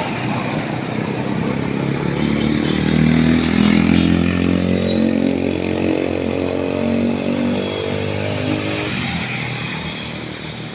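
Road traffic noise, with a motor vehicle's engine passing close: it comes in about two seconds in, is loudest a second or two later, and drops away after about nine seconds.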